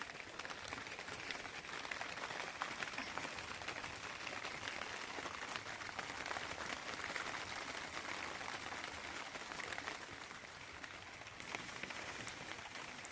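Steady rain pattering: a dense, even crackle of many small drops that holds throughout.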